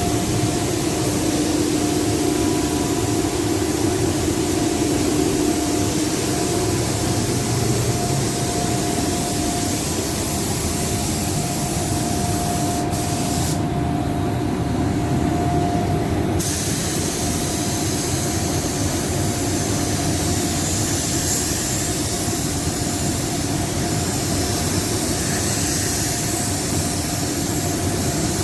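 Compressed-air paint spray gun hissing steadily as car body paint is sprayed, over a steady hum, with the high hiss easing off briefly about halfway through.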